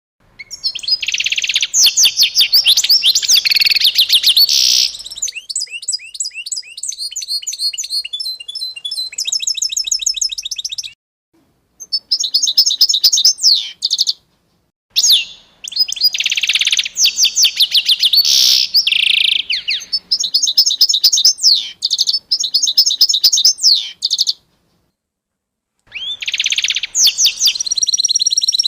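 Songbirds singing in rapid chirps and trills, in several bouts broken by short, complete silences.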